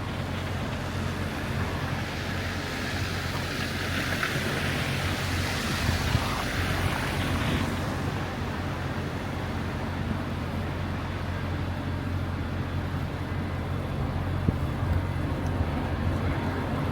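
City street ambience in a snowstorm: a steady low traffic rumble, with a hiss that swells from about two seconds in and cuts off near eight seconds.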